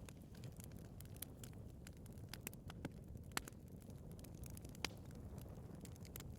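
Wood fire burning in a fireplace: a low steady rumble of flames with irregular sharp crackles and pops from the burning logs, the loudest pops about three and a half and five seconds in.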